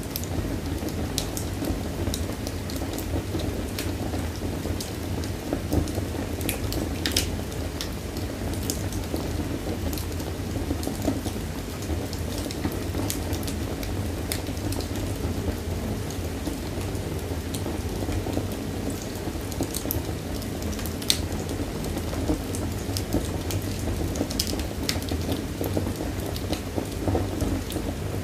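Wood fire burning in a fireplace: a steady low rush of burning with irregular crackles and sharp pops scattered throughout.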